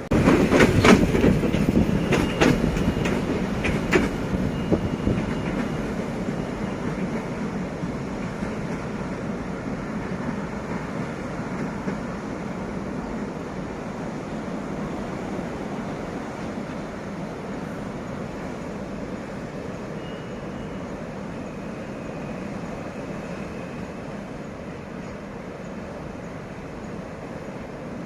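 D11H diesel locomotives running on the rails, with loud clicks of wheels over rail joints in the first few seconds. A steady rumble follows and slowly fades away.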